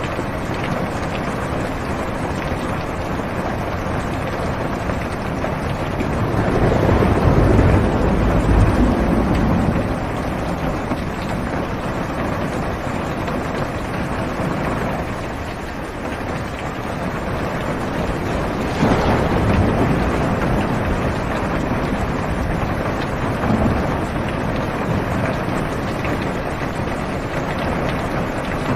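Steady heavy rain on a car's roof and windows, heard from inside the car. A low thunder rumble swells about six seconds in and lasts a few seconds, and a sharper thunderclap comes about two-thirds of the way through and rolls away.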